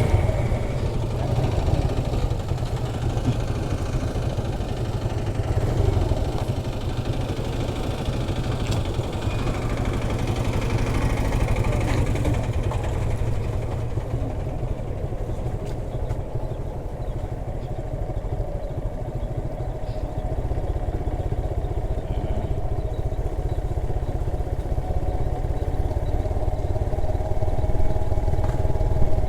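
Motorcycle engine running steadily in a low gear under engine braking on a steep downhill, with a continuous low rumble throughout.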